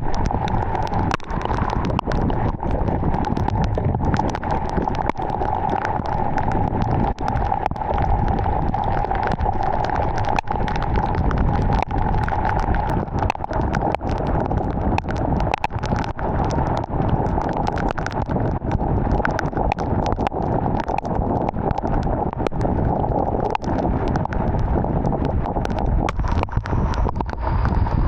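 Heavy rain falling steadily, a dense stream of drop hits over a constant hiss.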